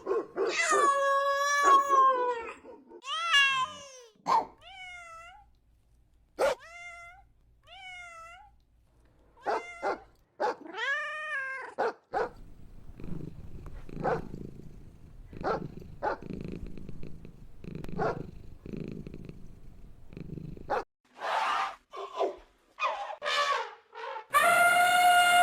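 Cats meowing: a series of drawn-out meows with short, chirping mews between them. A quieter stretch of clicks and rustling comes in the middle.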